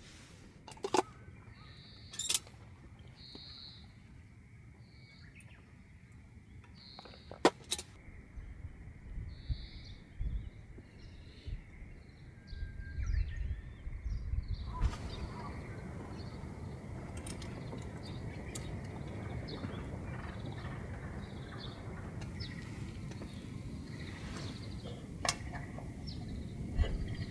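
A bird calling with short chirps repeated about once a second, with a few sharp clicks among them. About halfway through, the sound changes to a steady hiss with scattered crackles.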